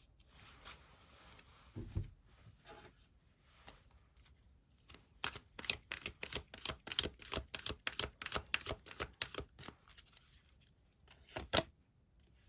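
Tarot cards being handled: a soft slide and a low knock in the first couple of seconds, then a quick run of card snaps, about five a second, for some four seconds, and a sharper knock near the end.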